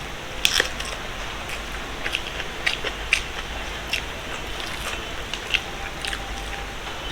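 Close-up eating sounds: a person chewing, with scattered short, sharp clicks and crackles over a steady background hiss.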